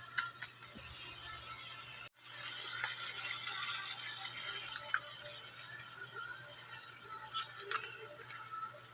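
Chicken sizzling in a pan: a steady hiss with scattered light crackles and clicks, broken by a sudden cut about two seconds in.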